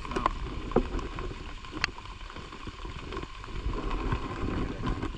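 Rain falling on the river and on the inflatable boat, a steady hiss with a low rumble and a few sharp ticks.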